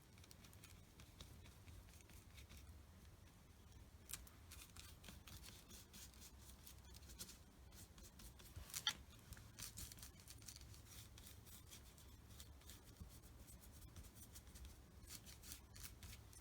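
Faint, dry scratching strokes of an art tool on paper in quick irregular runs, starting about four seconds in, with one sharper click near the middle.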